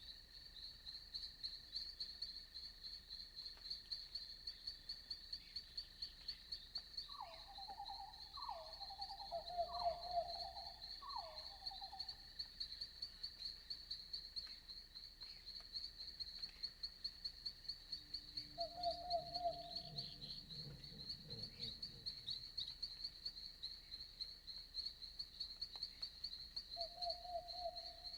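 Night forest ambience: insects trilling steadily in a fast, high-pitched pulse. About a third of the way in comes a quick run of four short falling animal calls, and a few single, lower calls follow later.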